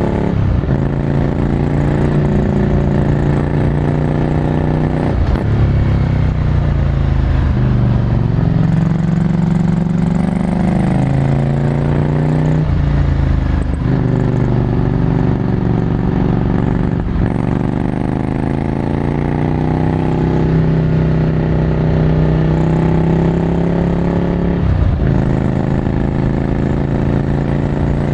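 Ducati Scrambler Desert Sled's air-cooled L-twin through a full Termignoni exhaust, heard onboard while riding. The revs rise and fall with the throttle, broken by several gear changes.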